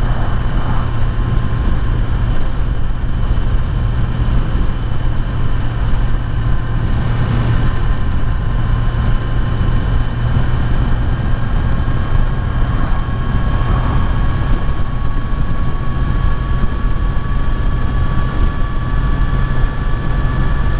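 Kawasaki Z900's inline-four engine running at a steady cruising speed, its note rising slightly in the second half, with wind noise on the microphone. The bike is new and still in its running-in period.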